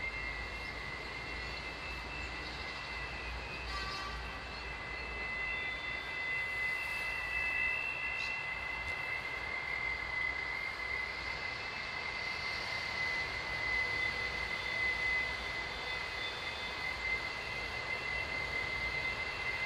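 An unexplained sky sound: a steady, high-pitched drone of two held tones over a constant hiss and low rumble, which the listeners hear as a creaking overhead.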